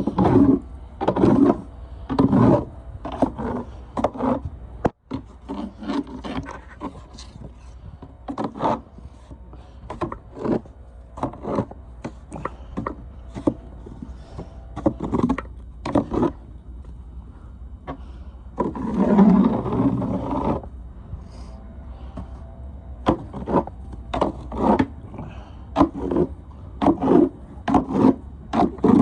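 Snow shovel scraping and pushing heavy wet snow in a run of short strokes about a second apart, with one longer scrape about two-thirds of the way through.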